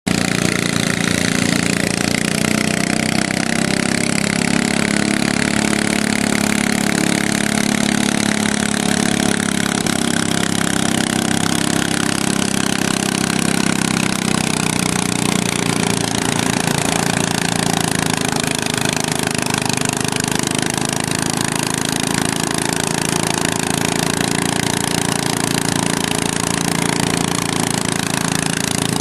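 Modified garden pulling tractor's engine running hard at steady high revs through a pull, with a slight shift in pitch about halfway through.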